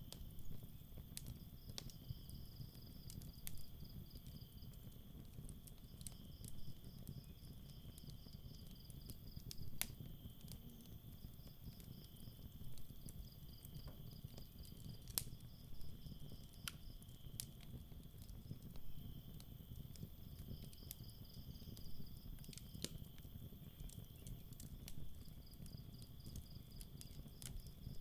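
Campfire crackling with scattered sharp pops over a low steady hiss, while crickets trill in pulsing bursts of a few seconds alongside a steadier high insect drone.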